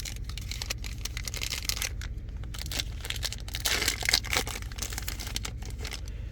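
Foil wrapper of a trading-card pack being torn open and crinkled, in bursts of crackling, loudest about four seconds in.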